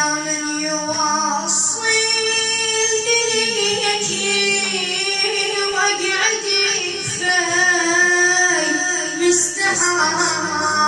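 A high solo voice sings an Arabic Husseini lament in long held, ornamented notes with wavering pitch.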